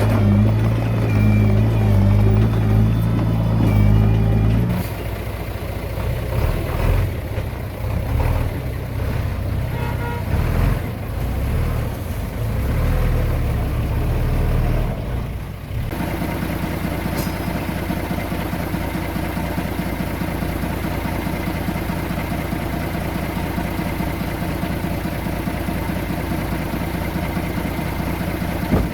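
Diesel engine of heavy earthmoving machinery running under varying load, loudest in the first few seconds. About halfway through it switches abruptly to a steadier, even engine run.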